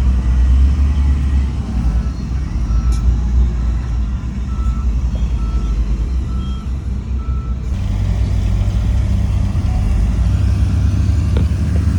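Heavy diesel earthmoving machinery running, with a reversing alarm beeping evenly about once a second for several seconds while a machine backs up. Near the end the beeping stops and the engine note changes and grows a little louder.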